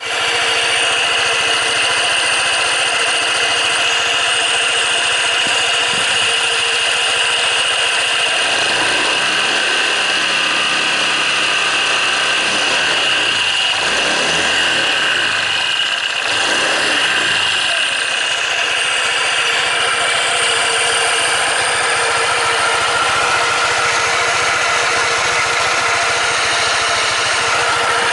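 Honda PCX125 (JF56) scooter's single-cylinder engine running steadily, with its note swinging down and back up a few times in the middle stretch.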